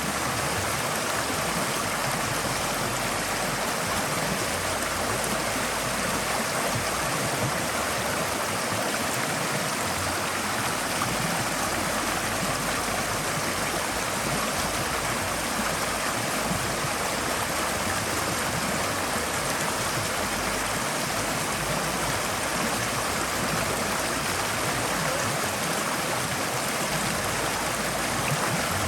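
Forest stream flowing steadily over rocks, a continuous even rush of water.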